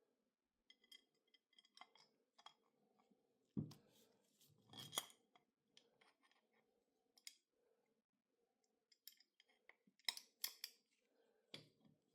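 Faint, sparse clicks and clinks of small metal parts being handled, with a dull knock about three and a half seconds in and a quick run of sharp clicks about ten seconds in.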